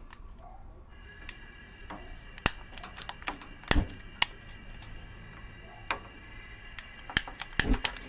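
A gas burner under a foil-covered steam pan is turned on about a second in, bringing a steady gas hiss, while a long-reach utility lighter is clicked about ten times under the pan until the burner lights.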